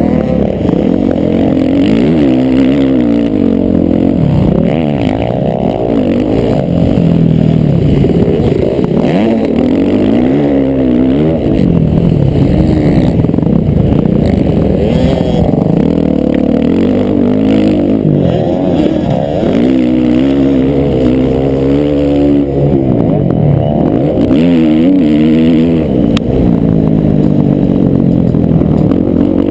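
Several motocross bikes' engines revving up and down together, their overlapping pitches rising and falling again and again as they accelerate and back off.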